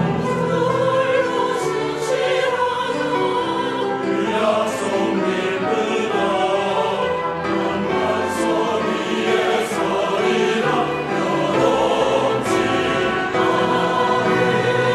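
A church choir singing an anthem in sustained, full chords, with instrumental accompaniment beneath.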